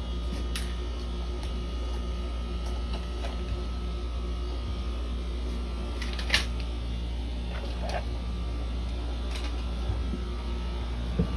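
Window air conditioner running steadily with a low hum, a few faint clicks over it.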